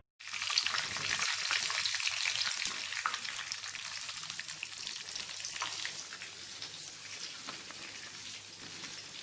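Marinated chicken pieces frying in hot oil in a kadai: a dense crackling sizzle full of small pops that slowly grows quieter.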